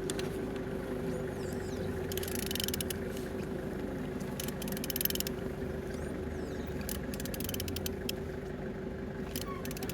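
Opel Z18XER four-cylinder engine being turned over by hand with a wrench on the crankshaft, giving several spells of rapid clicking over a steady hum. The engine turns freely, a sign that it is not seized.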